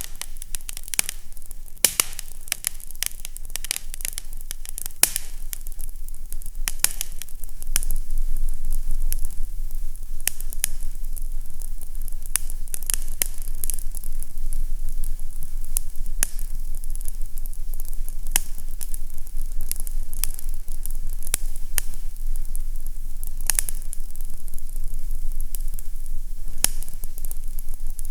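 Fireplace fire crackling, with frequent sharp pops and snaps over a soft hiss and a steady low rumble. It gets a little louder about a quarter of the way in.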